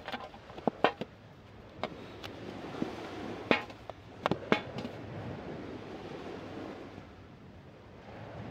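Camp gear being handled, making a scatter of sharp clicks and knocks, about nine in the first five seconds, over steady surf.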